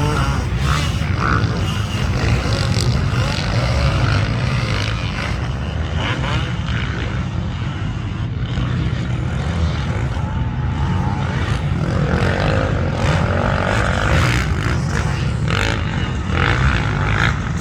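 Motocross dirt bike engine running under load during practice laps, its pitch rising and falling as the throttle opens and closes, over a heavy low rumble.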